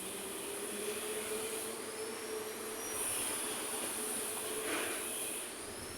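Heavy road traffic going past: a large vehicle with a steady whine, two brief high squeals, and a short rush of noise about five seconds in.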